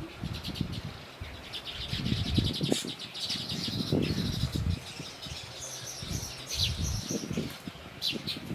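Small birds chirping in quick, high-pitched runs of short notes, with irregular low rustling and thuds underneath.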